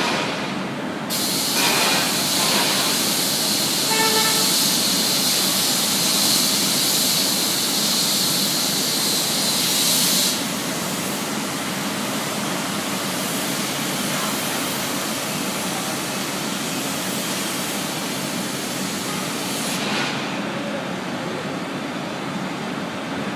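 Factory machinery running with a steady, even noise. Over it, a loud high-pitched hiss starts about a second in and cuts off suddenly after about nine seconds. A brief squeal comes about four seconds in, and a shorter hiss near the end.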